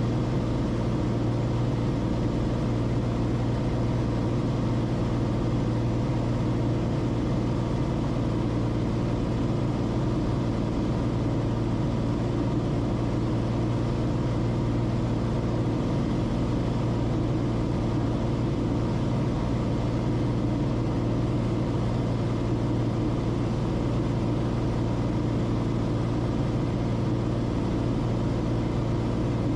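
Cessna Corvalis TTX's turbocharged six-cylinder piston engine running steadily: an even, unchanging drone with a strong low hum.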